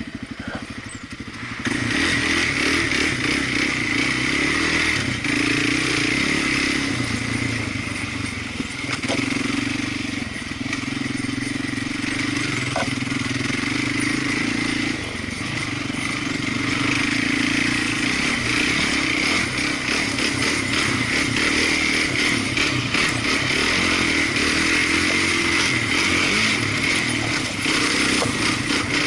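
Small off-road vehicle engine ticking over, then pulling away about two seconds in. It keeps running under throttle, its pitch rising and falling as the throttle is worked.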